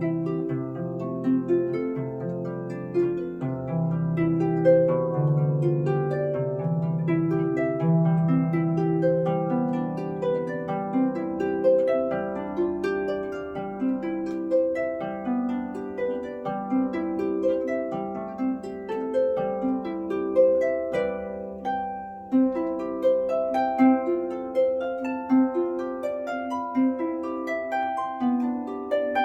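Celtic harp played solo: a plucked melody over lower bass notes, each note ringing and dying away, with a short lull about two-thirds through before it goes on more strongly.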